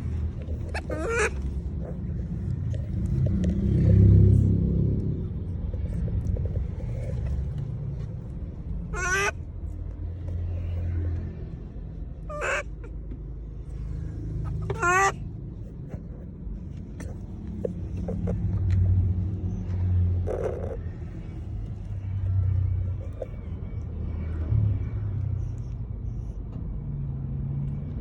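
Monkey giving four short, high-pitched calls a few seconds apart, over a steady low rumble.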